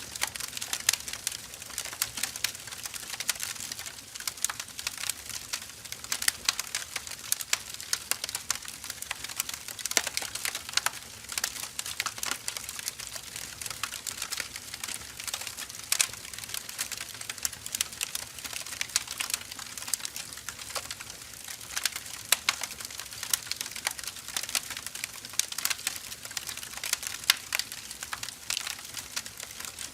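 Split firewood logs burning, crackling and popping continuously with many sharp irregular snaps over a soft hiss of flame.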